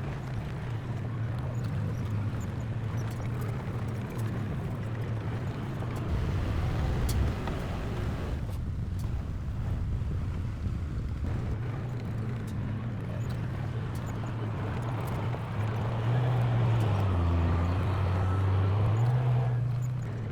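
Heavy diesel engine of earthmoving equipment running steadily. It grows louder about sixteen seconds in, then drops in pitch for a couple of seconds and climbs back.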